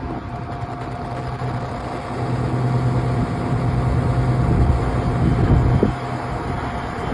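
Agricultural spray plane's engine droning as it flies past, growing louder to a peak about five seconds in, then easing off.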